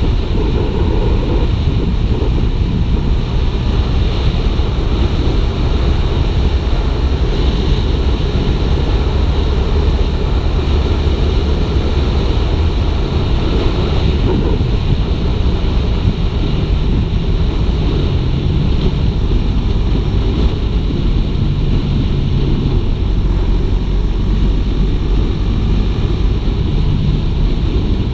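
Heavy wind rush on the microphone of a riding motorcycle, a Suzuki GSX-R 150, with its single-cylinder engine running underneath and shifting in pitch now and then.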